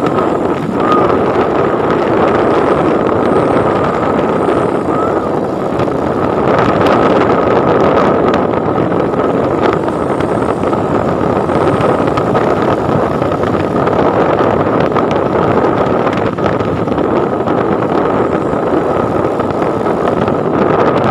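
Truck driving at speed: a steady drone of engine and road noise, with wind buffeting the microphone and a thin, steady high whine over it.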